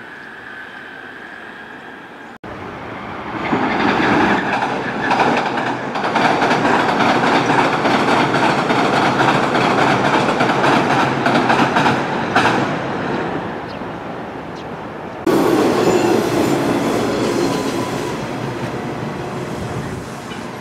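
Quiet background with a faint steady tone, then, after a sudden cut, a JR Kyushu 811/813-series electric train rolling across a girder bridge, its wheels clattering loudly. A second sudden cut about fifteen seconds in brings the same kind of train running along a station platform, its motors whining with a pitch that shifts up and down.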